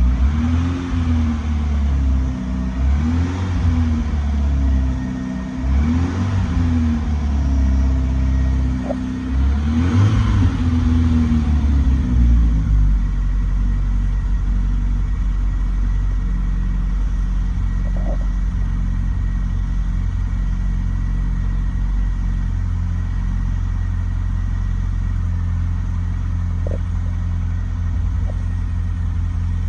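Classic Mini's A-series four-cylinder engine revved in several short blips, each rising and falling, then settling to a steady idle about twelve seconds in.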